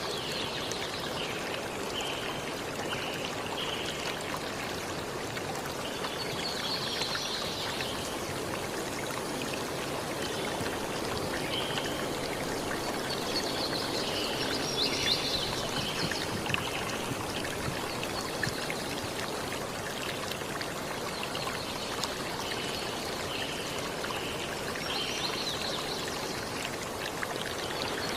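Running water, such as a stream, making a steady rushing, with short higher-pitched sounds that come and go every few seconds.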